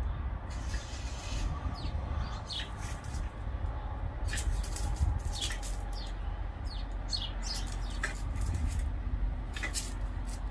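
Small birds chirping in short, high, often falling notes, scattered irregularly, over a steady low rumble.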